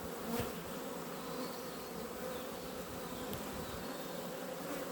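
Many honey bees buzzing steadily around an opened hive, a continuous even hum.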